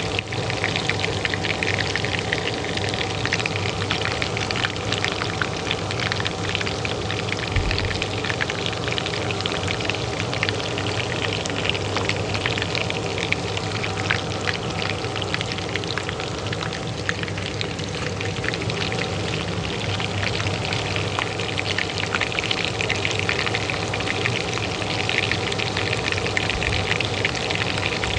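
Oil frying in a pan with dense, steady crackling and spitting, over the even hum of a kitchen range hood fan.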